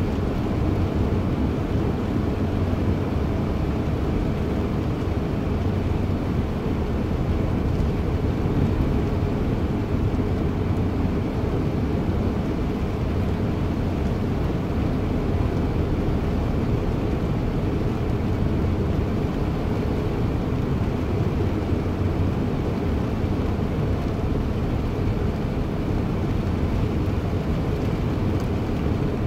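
A steady low engine drone that stays unchanged throughout.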